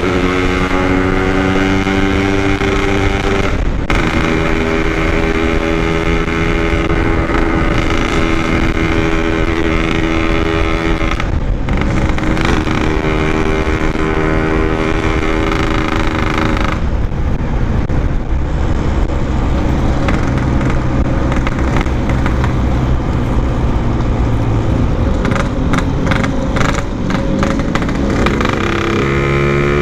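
Yamaha RX-King's 135cc single-cylinder two-stroke engine running under way through its packed standard-style exhaust, held at steady revs with short throttle lifts for gear changes about 4 and 11 seconds in. Later the revs wander lower, break up in quick throttle blips near the end, then climb again.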